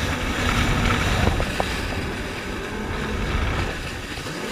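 Jet ski (personal watercraft) running under way, a steady engine drone with water rush and wind buffeting the microphone.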